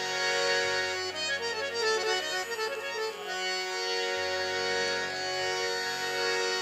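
Harmonium playing an instrumental introduction: held reed chords sound throughout, with a quick run of moving melody notes in the first half.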